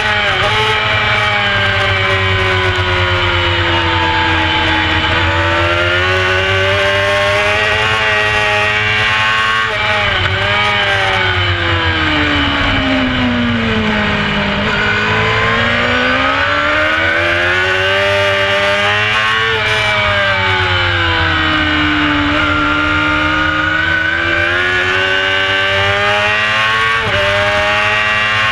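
Carburetted 600cc four-cylinder race bike's engine heard onboard at full racing revs. Its pitch climbs through the gears and drops under braking for corners, falling lowest about halfway through before climbing hard again. A steady rush of wind runs underneath.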